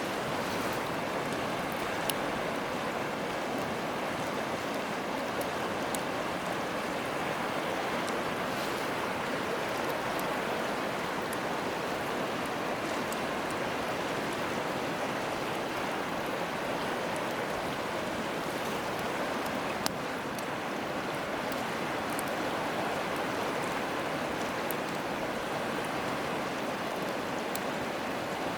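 A river rushing steadily, with a few sharp crackles from a wood campfire scattered through it.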